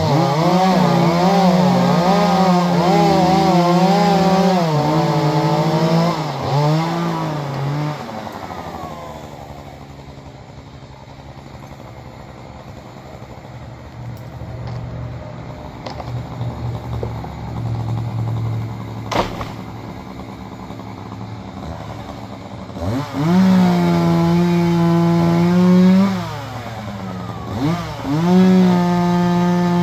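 Two-stroke chainsaw running at high revs with the pitch wavering under load as it cuts wood. About eight seconds in it drops to a low idle for roughly fifteen seconds, with one sharp knock in the middle. Near the end it is revved up again twice.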